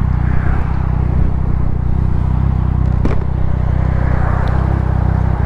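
Motorcycle engine running steadily under the rider, with wind noise on the helmet microphone and a single sharp click about three seconds in.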